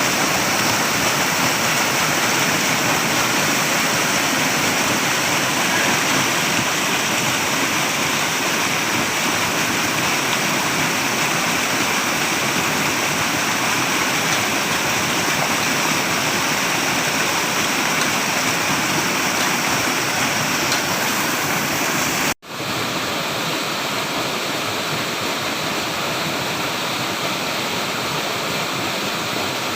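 Flowing water rushing steadily. A brief drop to silence comes about three-quarters of the way through, after which it runs on slightly quieter.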